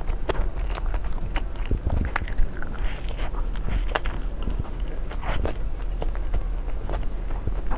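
Close-up eating sounds: a person biting and chewing food, with many short crunchy clicks and crackles.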